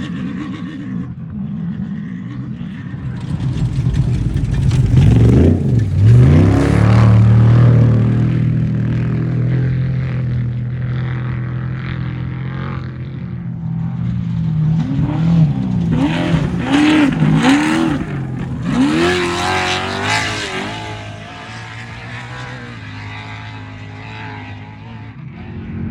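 Off-road race vehicles' engines running hard as they pass. About five seconds in, the pitch swoops sharply and the sound peaks as one goes by close. Later, around the middle, the revs rise and fall several times in quick succession before the sound fades down.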